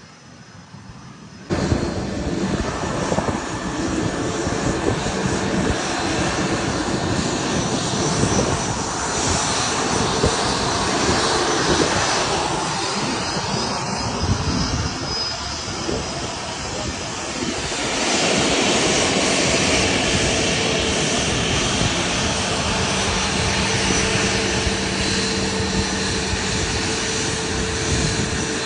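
A jet aircraft's engines running loud: a steady rush of noise with a faint whine. It starts suddenly about a second and a half in.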